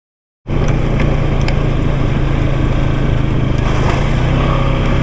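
Engine of a small off-road vehicle running steadily at a low, even speed, the sound cutting in abruptly about half a second in.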